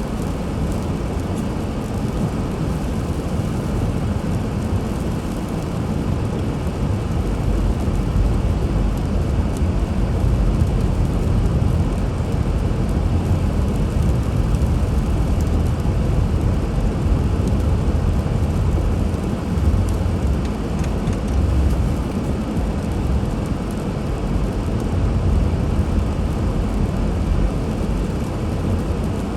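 Steady low rumble of a car driving, heard from inside the vehicle: road and engine noise with no distinct events.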